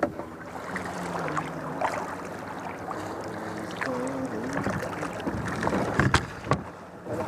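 Handling noises aboard a fishing kayak: knocks, clicks and rustling of gear and a landed fish, with two sharp knocks about six seconds in.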